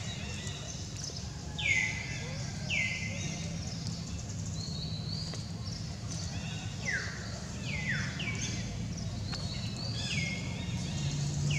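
Birds calling in the background: repeated short, clear whistles that each slide downward in pitch, mixed with higher chirps, over a steady low hum.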